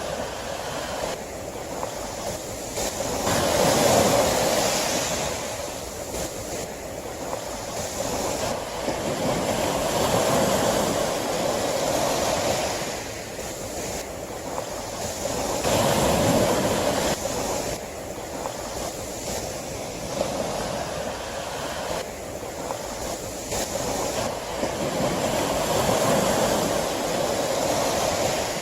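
Sea waves breaking and washing on a shore, a steady rush that swells and recedes in slow surges about every six seconds.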